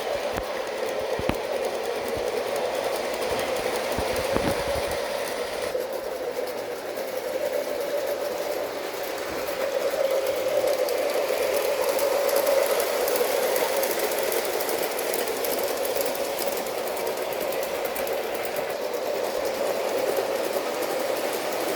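K-Line O gauge Hudson model steam locomotive running on track, a steady mechanical running sound from its motor and wheels mixed with Lionel RailSounds effects. A few sharp clicks come in the first few seconds.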